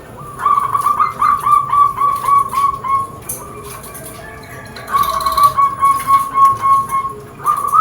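Zebra dove (perkutut) cooing: runs of short, quick, evenly spaced coo notes, about three a second, in three phrases with pauses between them.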